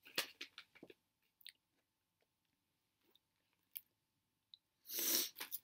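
Quiet chewing with small crunches of a chocolate-coated wafer snack cake in the first second, then scattered faint ticks. Near the end, a loud brief rustle of snack packaging being handled.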